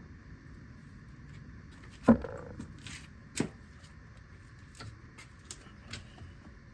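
Handling noises while prying at car steering-wheel and airbag parts: a sharp knock about two seconds in, a short scrape, a click and a few light ticks, over a faint steady hum.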